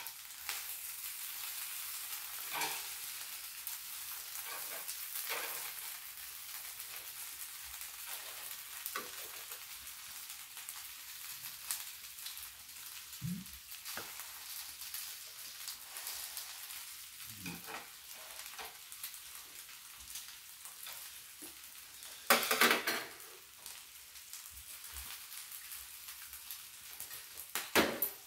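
Squid-and-scallion pancake (pajeon) frying on an electric griddle: a steady sizzle, with scattered clicks of chopsticks and a short louder clatter about two-thirds of the way through.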